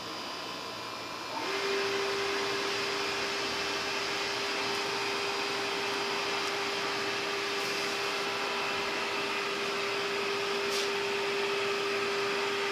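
A steady mechanical hum: a constant tone over an even hiss, which sets in about a second and a half in and then holds unchanged.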